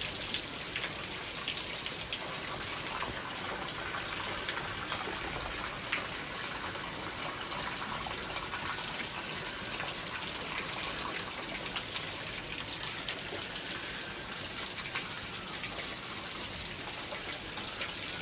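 Heavy thunderstorm rain falling steadily: a dense patter of drops over a gushing wash of water.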